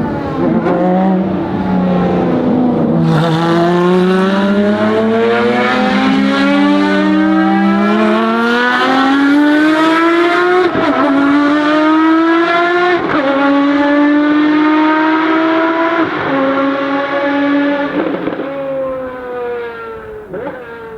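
Ferrari FXX Evoluzione's V12 accelerating hard, its pitch climbing through the revs and dropping sharply at each upshift, four times, then fading away near the end.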